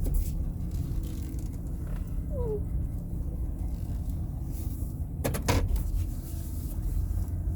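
Van engine running with low road rumble, heard from inside the cab as it drives slowly. There are a few sharp clicks about five and a half seconds in.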